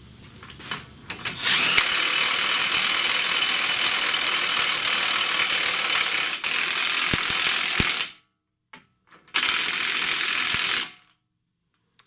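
Power impact wrench running hard as it snugs up the lower control arm bolt: one long run of about six seconds, then a shorter second run of about a second and a half.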